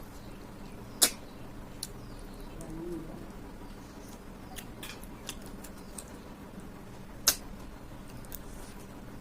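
Close-miked eating of snail curry: two sharp clicks, about a second in and about seven seconds in, with fainter clicks and a soft low mouth sound between.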